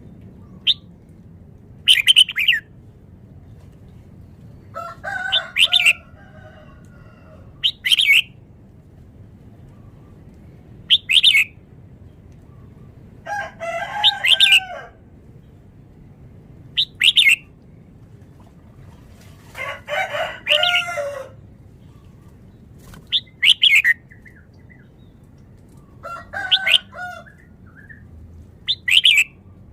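Red-whiskered bulbul singing: short, loud, whistled phrases every two to three seconds, with a few longer warbled phrases among them.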